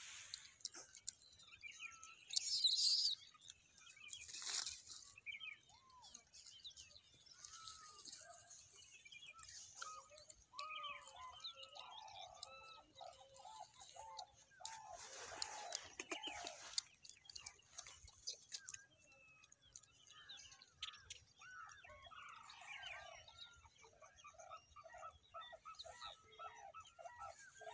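Birds chirping and calling on and off, ending in a fast run of repeated calls, about four a second. Two short, loud bursts of rustling noise stand out at about two and a half and four and a half seconds in.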